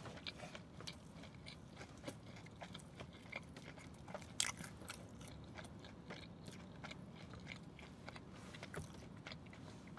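Quiet chewing of breaded Burger King chicken fries: soft, scattered crunches and mouth clicks, with one louder crunch about four and a half seconds in.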